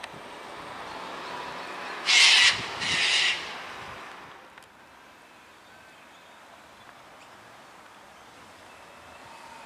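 Two loud, harsh bird calls in quick succession, about two and three seconds in, each about half a second long, over a faint steady background.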